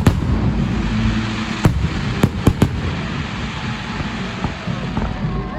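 Festive fireworks salute: about five sharp bangs in the first three seconds, irregularly spaced, over a steady low rumble.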